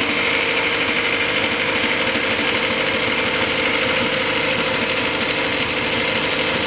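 Rebuilt Reliant 850 four-cylinder engine running steadily at idle on a test bench, its exhaust piped through a vacuum cleaner hose.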